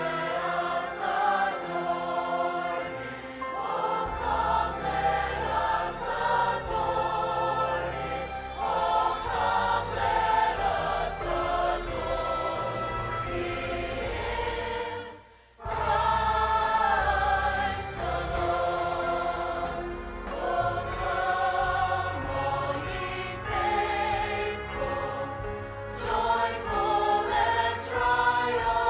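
Church choir singing with musical accompaniment, cutting out for a moment about halfway through before carrying on.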